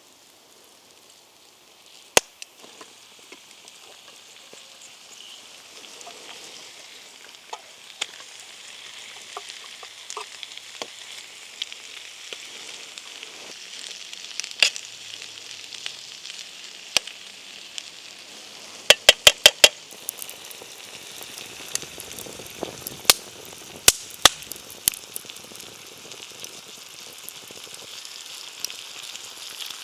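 Food sizzling as it fries over a small wood fire, the sizzle slowly growing louder, with scattered sharp clicks and a quick run of about six clicks near the middle.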